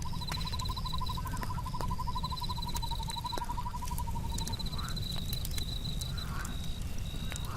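A frog's long, rapid trill that stops about four and a half seconds in, over crickets trilling higher in short stretches and scattered sharp crackles of a wood campfire.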